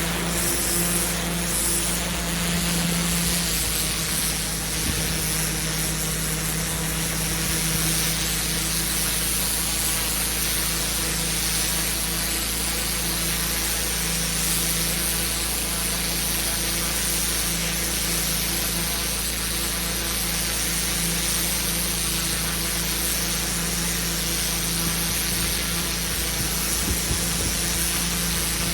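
Pressure washer running steadily: a constant engine or pump tone under an even hiss of high-pressure water spray.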